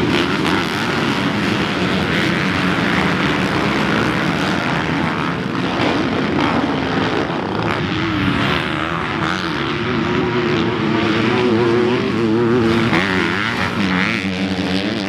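Several motocross dirt bikes racing on the track, their engines revving up and down as they accelerate and shift.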